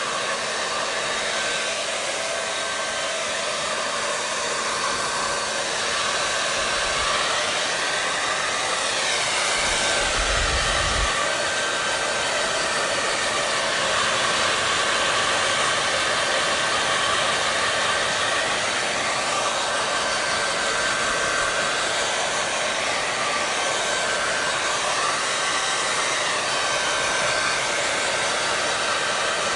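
Hair dryer running steadily: a constant rush of blown air with a faint steady whine from the fan motor.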